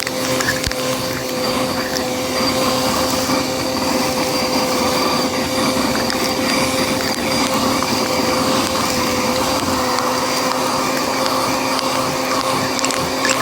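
Bissell vacuum cleaner running steadily, a constant motor hum and whine over airflow noise, with a few short ticks.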